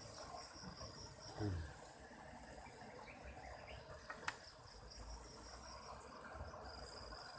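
Insects chirping steadily in high, pulsing trills. About a second and a half in comes a brief low falling thump, the loudest sound here, and past the middle a single sharp click.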